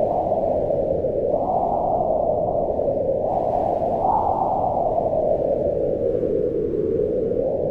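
Wind blowing, a low rushing noise that swells and eases, rising in two gusts, one about a second and a half in and another about four seconds in.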